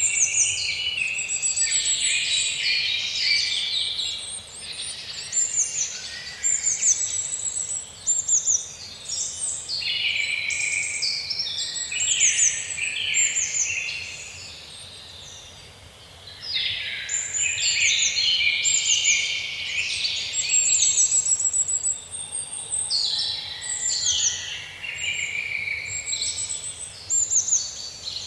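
A chorus of several birds singing and calling over one another, with rapid high trills among the songs. The singing thins out to a lull about halfway through, then builds back up.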